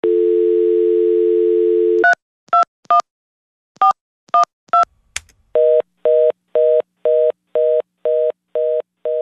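Telephone audio: a steady dial tone for about two seconds, then six touch-tone digits dialled and a click. From about halfway through comes a fast busy signal beeping twice a second.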